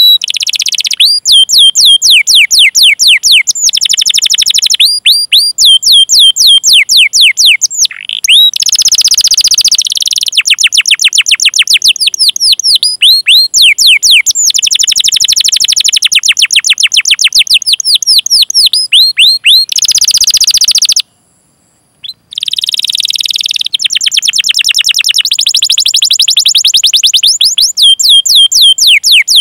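Domestic canary singing loudly in fast runs of sharp 'cuit cuit' chirps, each note sweeping down in pitch, strung into rolling trills. The phrases come with short breaks and one brief pause about 21 seconds in.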